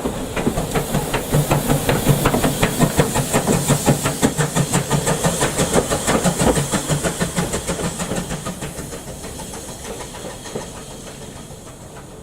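Steam locomotive working past, its exhaust beats coming in a steady rhythm over a hiss of steam. It builds over the first couple of seconds, then fades away in the second half.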